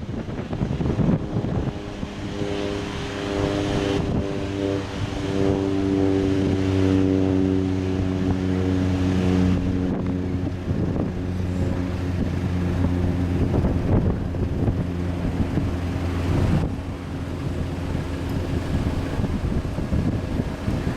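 Taxiing airliner's engines passing close by: a steady low hum of several even tones that builds, holds through the middle and fades near the end. Wind buffets the microphone throughout.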